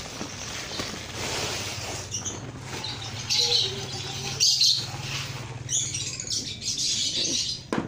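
Lovebirds chirping in short high-pitched bursts, over rustling and light pattering.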